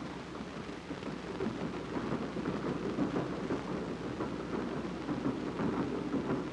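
A train running along the rails: a dense, steady, crackling rumble, heard on an old 16 mm film soundtrack.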